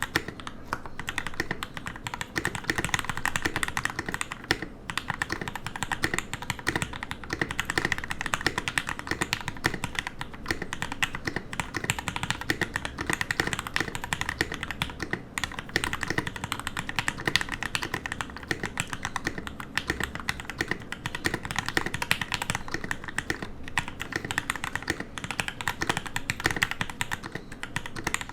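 Continuous fast typing on a custom 60% mechanical keyboard with lubed and filmed Gateron Yellow linear switches on an aluminium plate in a plastic case: a steady stream of keystroke clacks, with a few brief pauses.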